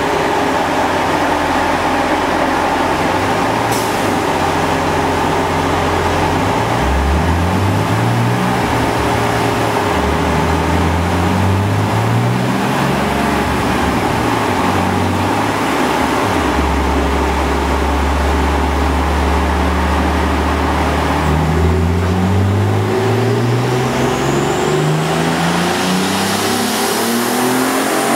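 Turbocharged BMW E46 M3 inline-six running on a chassis dyno. It rises in short steps at low revs, holds steady for a few seconds, then from about two-thirds of the way in revs up steadily under load as a fourth-gear dyno pull begins, with a high whine rising along with it near the end.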